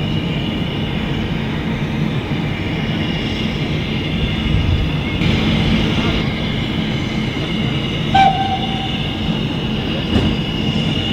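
Train running along the rails, a steady rumble of wheels and carriage. A brief pitched tone sounds about eight seconds in, and a short knock comes about two seconds later.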